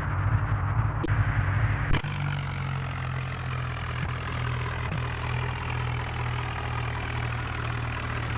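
New Holland tractor's diesel engine running, louder and uneven at first; about two seconds in it changes abruptly to a steady idle.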